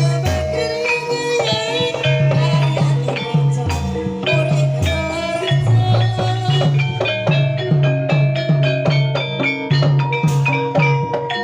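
Javanese jaranan-style gamelan music: a steady repeating drum beat under a melody of tuned percussion.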